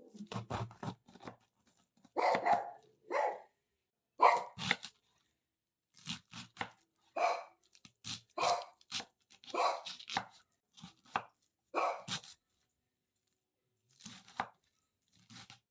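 A dog barking in short, irregularly spaced bursts, about a dozen in all.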